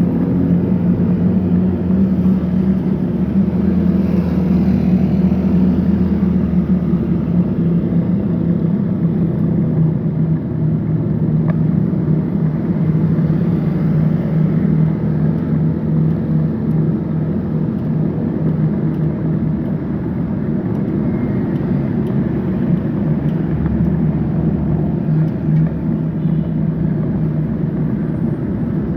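Road traffic: a motor vehicle's engine running steadily, a constant low drone over road noise.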